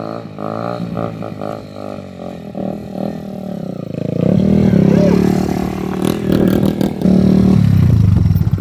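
Mini stunt bike's 125 cc single-cylinder engine running at low revs, then revved up about four seconds in and held high for a few seconds, with a brief dip in the middle, before easing off near the end.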